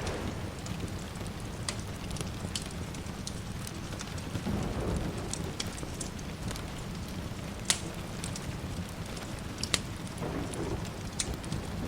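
Wood fire crackling, with scattered sharp pops, two of them louder about eight and ten seconds in, over a steady hiss of rain.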